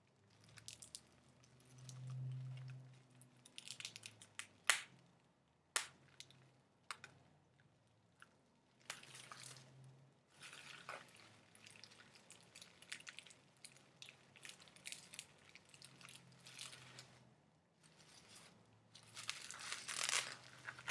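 Faint close-miked ASMR trigger sounds: irregular crinkling and crackling in patches, with scattered sharp clicks, two of them standing out about a second apart a quarter of the way through.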